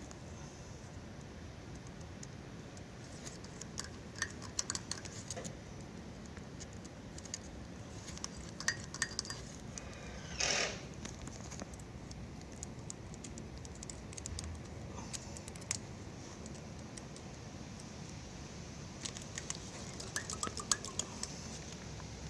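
Scattered small metallic clicks and taps from handling carburetor parts and a pin while poking the carburetor's small holes clean, with one short, louder scraping noise about ten seconds in.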